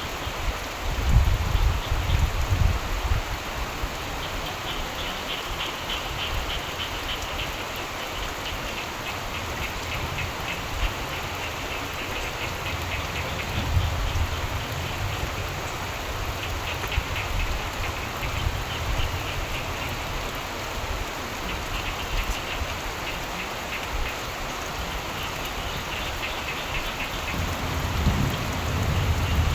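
Steady rain falling, with frogs calling in stretches of rapid pulsed trills. A low rumble of thunder sounds in the first few seconds, and another builds near the end.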